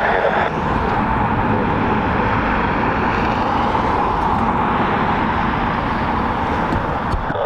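Jet airliner engines running, a steady rumble and rush of noise.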